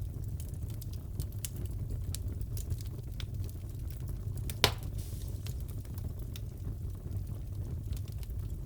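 Wood fire crackling in a fireplace: scattered small pops and snaps over a steady low rumble, with one sharper, louder pop about halfway through.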